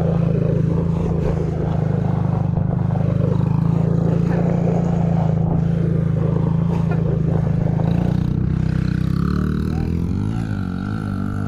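Motorcycle engine running steadily at low revs close by. About eight seconds in its pitch drops, then wavers up and down as the throttle changes on a slow turn.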